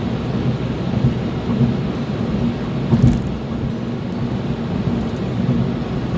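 Car driving on the road: a steady low rumble of engine and tyres, with a single thump about three seconds in.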